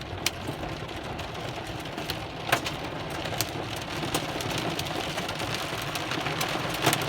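Steady rain with scattered sharp taps of drops and light hail hitting nearby surfaces, over a low steady hum.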